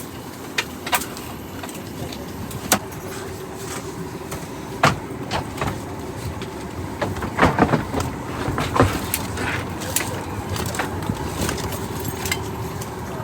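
Airliner cabin during boarding: the steady hum of the air conditioning, with scattered sharp clicks and knocks and a little faint murmur about halfway through.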